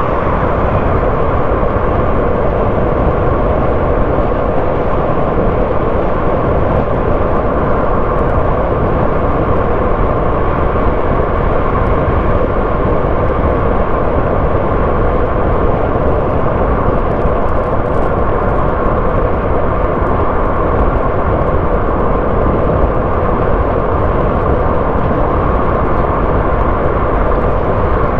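Car driving at a steady speed: engine and tyre-on-road noise, a loud, even rushing hum that does not change.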